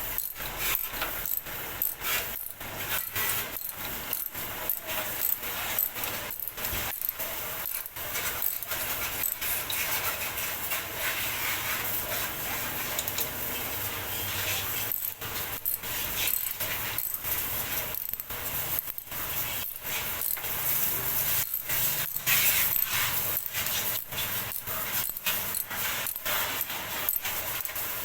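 Hand work on engine parts: continuous irregular scraping and rubbing punctuated by many small metallic clicks and knocks, with a smoother stretch of rubbing near the middle.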